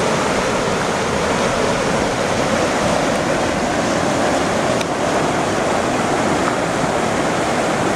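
River rapids rushing steadily: the continuous loud noise of whitewater current.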